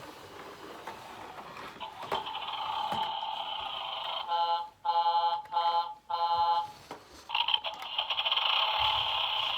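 Electronic tones from a battery-operated toy tractor: a steady buzzing tone swells up, breaks into three short beeps, then holds as a longer steady tone.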